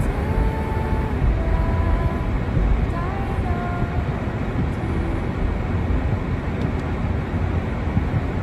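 Steady low outdoor rumble, with a few faint short calls or voices in the distance.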